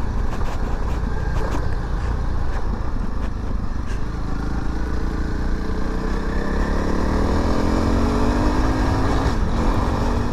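Honda CRF300 Rally's single-cylinder four-stroke engine running as the bike is ridden, over a steady low rumble. Through the second half its pitch climbs steadily, then drops briefly near the end.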